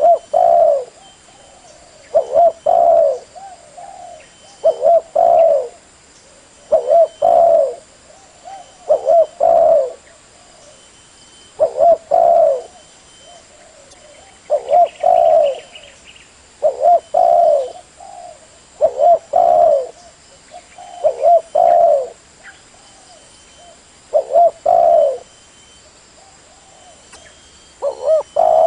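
Spotted dove cooing: a short, low phrase of coos repeated about every two seconds, in the steady call used to lure other doves.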